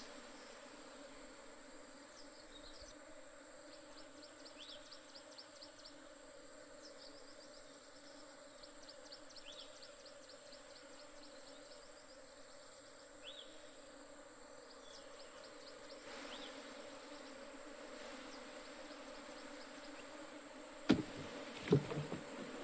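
Honey bees buzzing in a steady low hum, with faint high chirping trills in the background. A few sharp knocks sound near the end, louder than the hum.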